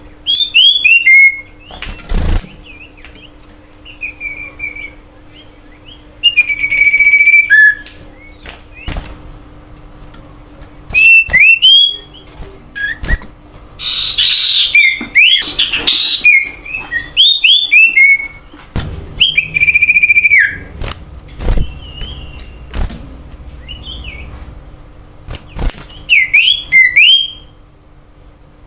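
Common iora singing loud phrases every few seconds: clear whistled notes and quick falling sweeps, with a harsh chattering passage about halfway through. Played as a lure song to set other birds singing.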